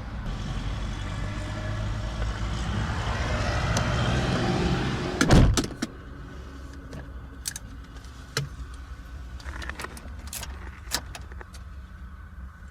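A car's engine runs steadily while a noisy wash builds for about five seconds, ending in one loud thump, most likely the car door shutting. Afterwards it is quieter, with the engine still faintly running and scattered small clicks and key jingles.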